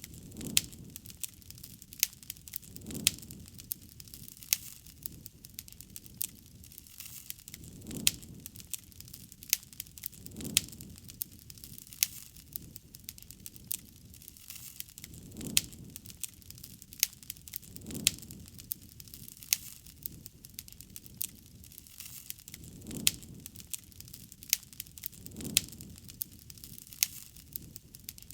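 Wood fire crackling and popping, with many sharp snaps and soft low swells of flame every few seconds.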